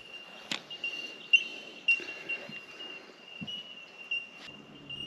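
A colony of bell miners (bellbirds) keeping up a continuous chorus of high, bell-like 'tink' calls, which blend into one steady ringing tone with repeated pips. A few sharp clicks or knocks sound over it, the loudest about a second in.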